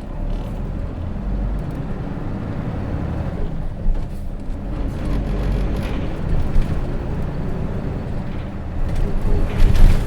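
Running sound of a Hino Rainbow RJ route bus heard inside the cabin, its J08C inline-six diesel engine running under way. A louder burst of noise comes near the end.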